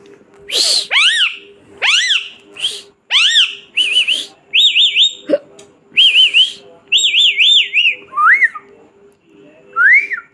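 Pet parrot giving a run of high whistled calls, about one a second, many wavering up and down in pitch and some rising sharply, with a faint steady hum underneath.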